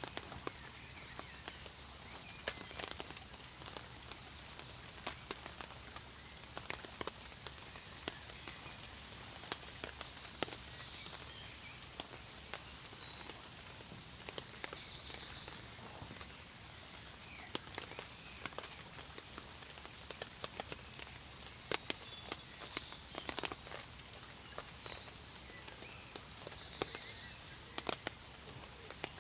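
Steady rain with scattered drops tapping sharply on a nearby surface, and a bird chirping in short runs twice.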